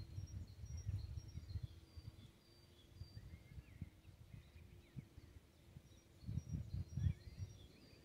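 Songbirds singing: series of high, thin, repeated notes in the first second or so and again near the end, with a few lower gliding chirps in between. Wind gusts on the microphone rumble under them, loudest at the start and again about a second before the end.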